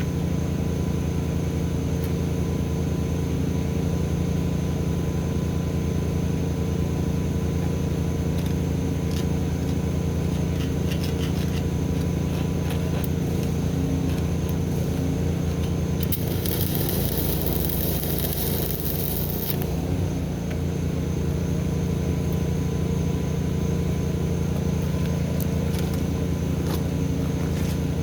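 An engine running steadily, a low hum with several even tones. About sixteen seconds in, a high hiss comes in over it for about three and a half seconds, then stops.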